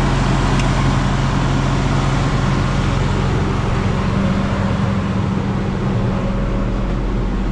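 Heavy diesel engine running at a steady speed, a low, even drone.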